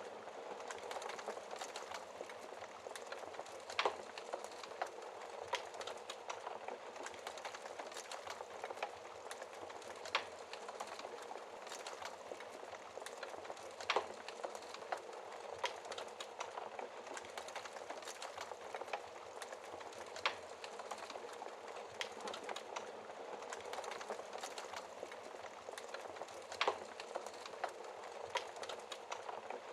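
Wood fire burning in a fireplace: a steady hiss of flames with constant small crackles and a handful of louder pops from the burning logs, about one every few seconds.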